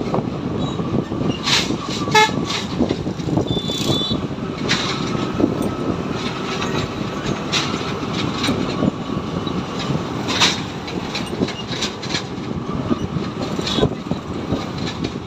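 Motorcycle on the move: steady engine and road noise with frequent sharp rattles and knocks, and a brief horn toot about two seconds in.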